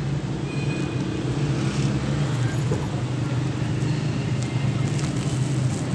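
4400 cc V8 engine in a 1984 Toyota Hilux running steadily, a low even hum.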